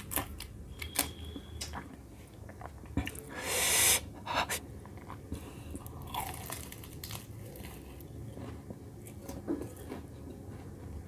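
Close-up chewing and crunching of green chilli and fried samosa, with sharp crunchy clicks in the first seconds. A loud hissing burst comes about three and a half seconds in.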